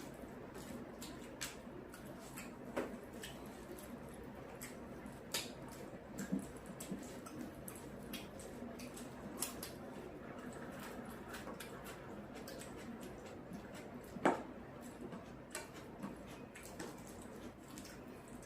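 Close-up eating sounds: wet chewing and mouth smacks with scattered sharp clicks, one louder click about fourteen seconds in.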